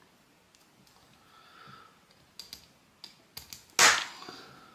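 Small metal brake caliper parts clicking and tapping together as they are handled and fitted. About four seconds in comes one sharper metallic clink that rings briefly.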